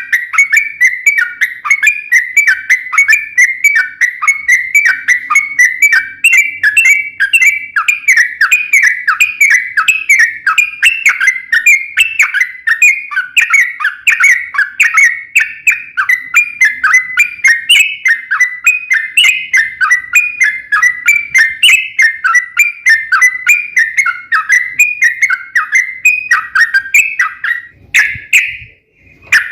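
Yellow-vented bulbul (trucukan) singing a long, rapid run of short whistled chirps, several a second without a break. Near the end it stops briefly, then gives one longer note.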